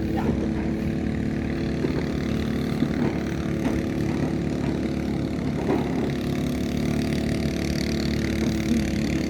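An engine or motor running steadily at an even speed, a constant droning hum.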